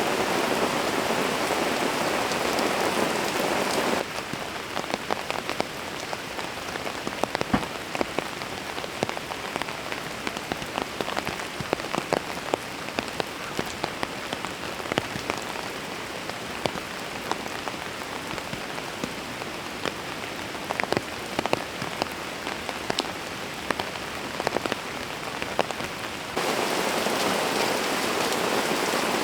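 Rain falling: a dense, steady hiss of rain that cuts abruptly about four seconds in to lighter rain with many distinct drops striking a surface one by one, then cuts back to the dense hiss near the end.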